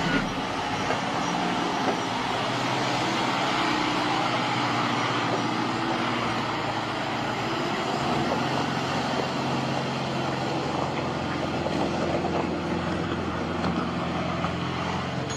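Off-road ambulance's engine running as it drives, a steady engine hum under a broad rush of road noise, its pitch shifting a little now and then.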